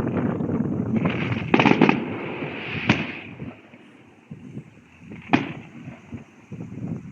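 Fireworks going off: a continuous rumble of bursts through the first couple of seconds, a cluster of sharp bangs about one and a half seconds in, another bang near three seconds, and a single bang a little past five seconds.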